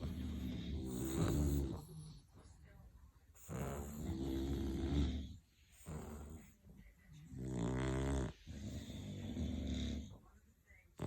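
English bulldog snoring: a run of loud, rattling snores about every two to four seconds, each lasting a second or more, with quieter breaths between.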